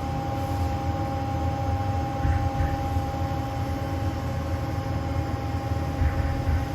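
Steady machine hum of a Haas SL15 CNC lathe powered up at rest, a low rumble and hiss with a constant thin whine.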